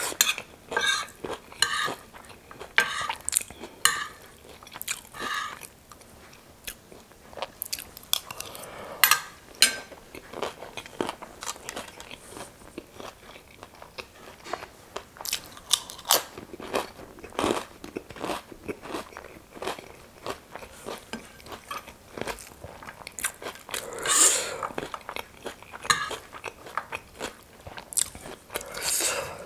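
A person crunching and chewing mouthfuls of chatpate, a spicy puffed-rice snack, and fried chips. The crunches come as many short, sharp clicks, with louder crunching about nine seconds in and again near the end.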